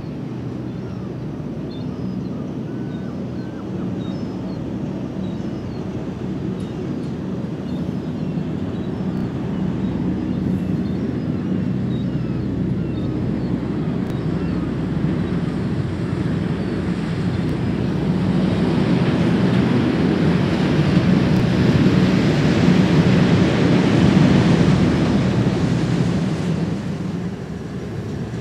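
A steady low engine hum, with a louder rushing noise that swells over several seconds from about two-thirds of the way in and fades near the end.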